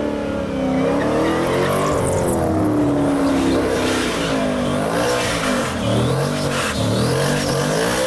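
Drag-racing V8 engines running loud and being revved, the pitch rising and falling in repeated throttle blips.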